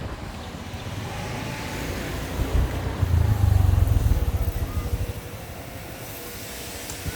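Motorbike riding along, its engine running under a heavy, uneven rumble of wind on the microphone that is loudest for about a second and a half near the middle.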